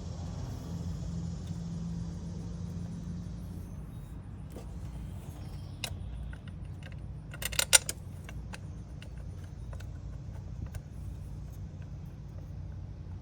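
Metal tools and parts clinking and rattling during work on the engine, with scattered light ticks and a short loud burst of clinks about halfway through. A low steady rumble runs underneath.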